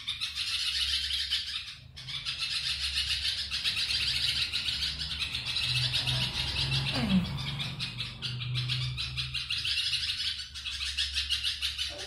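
Young birds chirping rapidly and without pause, a dense high twittering that breaks off briefly about two seconds in. A low steady hum runs underneath.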